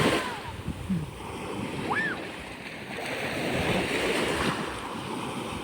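Sea waves surging and washing up the beach, swelling from about three to four and a half seconds in, with wind buffeting the microphone. A short high-pitched call rises and falls about two seconds in.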